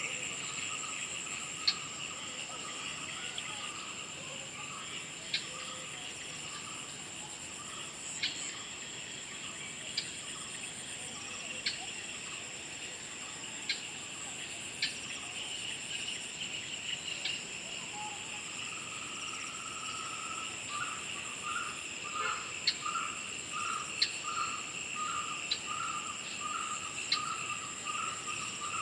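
Chorus of crickets and other insects: a steady high-pitched trill over a dense chirring, with short sharp clicks every second or two. From about two-thirds in, a repeated call joins, about two a second.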